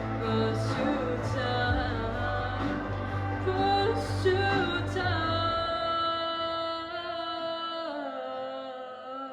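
Russian-language pop song: singing over instrumental backing with a steady bass line. About six seconds in the bass drops out, leaving long held notes that fade toward the end.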